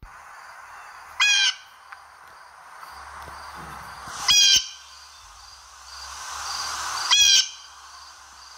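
Blue jay giving three loud, harsh calls about three seconds apart, over a steady outdoor hiss with faint high chirps repeating about twice a second.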